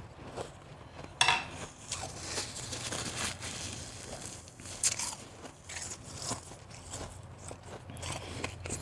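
Mouthful of soft, crunchy ice being bitten and chewed close to the microphone: a loud crunch about a second in, then a run of crackling chews with another sharp crunch near the middle.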